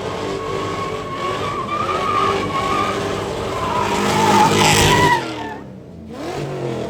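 A car doing a burnout: the tyres squeal with a wavering screech over the running engine, building to loudest about four to five seconds in, then cutting off suddenly. The engine revs up again near the end.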